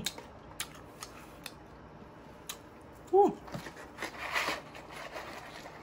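Wet mouth smacks and chewing clicks while eating fries, a short appreciative "mm" hum about three seconds in, then a paper fries carton crinkling as it is picked up.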